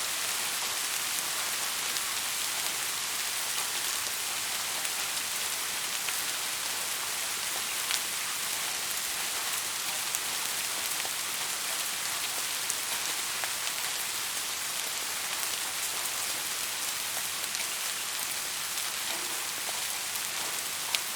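Steady rain falling, an even hiss with scattered sharper drop ticks; a few louder single drops stand out.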